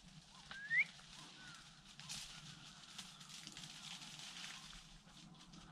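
A short rising bird call just under a second in, with a few faint chirps around it, then soft crackling rustles of dry brush and grass.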